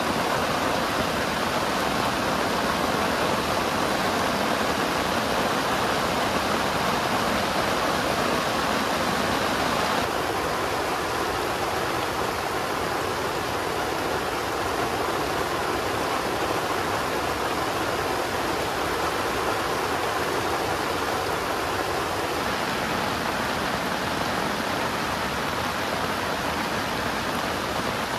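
Heavy rain pouring down steadily, a dense even hiss that drops slightly in level about ten seconds in.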